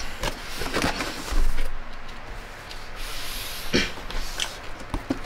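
A Panasonic food processor's plastic parts being handled: rubbing and scraping with several knocks, and a heavier thump about a second and a half in.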